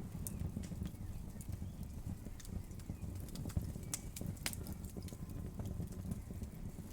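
Wood fire crackling: a steady low rumble of burning with sharp pops and snaps scattered irregularly through it, the loudest about four and a half seconds in.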